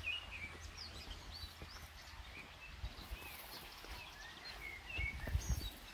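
Small birds chirping in the scrub, many short notes that rise and fall, scattered throughout. A few low thuds of footsteps on the dirt trail come about five seconds in.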